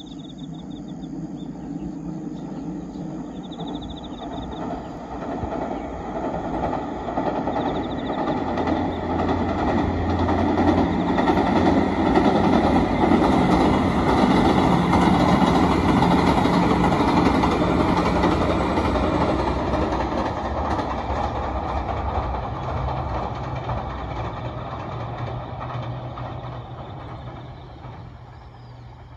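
JR Shikoku 2700-series diesel multiple unit crossing a steel truss bridge: engine and wheel-on-rail noise that builds up, is loudest about halfway through, and fades as the train pulls away.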